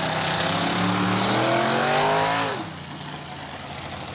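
Monster truck engine revving hard and rising in pitch, then dropping off sharply about two and a half seconds in as the throttle comes off, leaving a quieter, lower engine sound.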